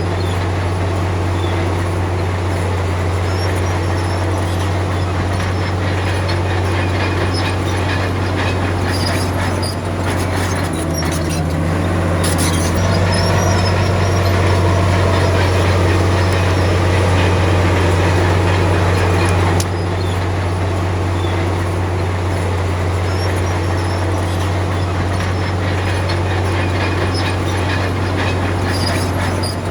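Heavy earthmoving machine's diesel engine running steadily with a deep low drone. It grows louder for a stretch in the middle, then drops back suddenly about two-thirds through.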